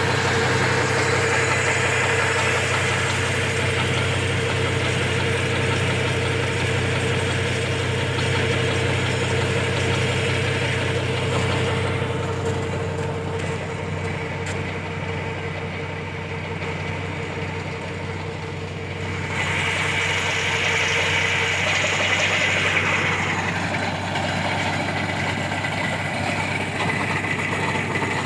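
Tractor engine running steadily, driving a large water pump, with a steady low hum and a rushing hiss above it. The hiss drops away for several seconds in the middle, then comes back stronger.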